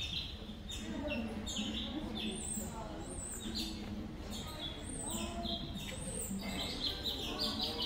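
Small birds chirping, a quick series of short falling notes repeating throughout, over the indistinct voices of people talking.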